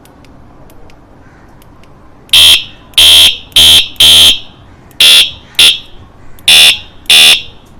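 Electronic bicycle horn beeping eight times in short, unevenly spaced presses: a shrill, very loud electronic beep.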